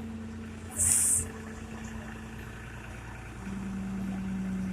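Tractor diesel engine idling steadily; about three and a half seconds in its note drops and gets a little louder. A short, loud hiss cuts in about a second in.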